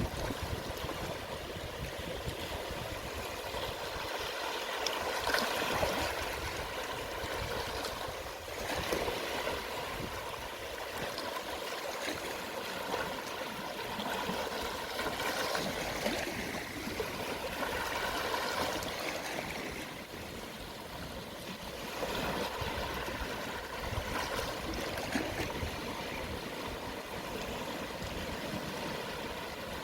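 Gentle sea waves lapping on the shore at low tide: a continuous wash of water that swells and falls back every few seconds.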